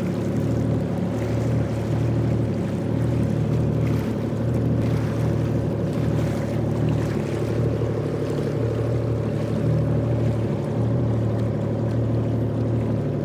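Jet ski engine running at steady revs, an even hum with no revving.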